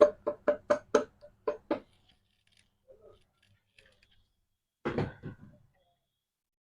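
Quick series of sharp taps on an engine's clutch cover, about four a second for two seconds, then a short rattling cluster of knocks about five seconds in, as the cover is seated onto the crankcase.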